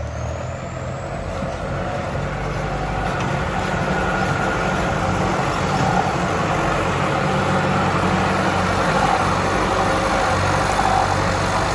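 Farm tractor's turbocharged diesel engine running steadily, a low even drone that grows a little louder over the first few seconds.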